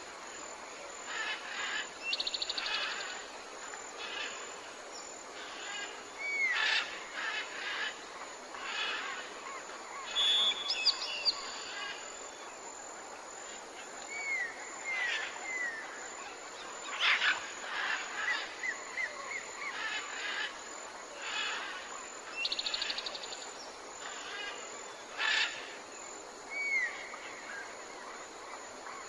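Wild birds calling: many short chirps and whistled notes, a few rapid high trills and short curling whistles, over a steady soft outdoor hiss.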